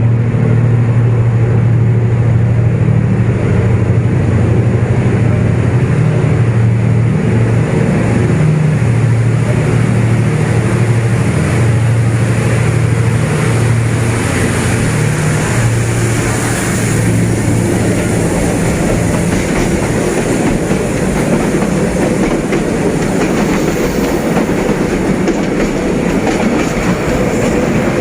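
D19E diesel-electric locomotive and train running, a steady low engine drone over wheel-on-rail clatter. About halfway through the engine tone fades back, leaving the rail noise.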